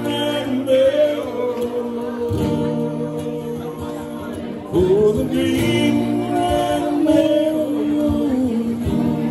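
Live singing of an Irish song in long, held notes, in two drawn-out phrases; the second begins about halfway through.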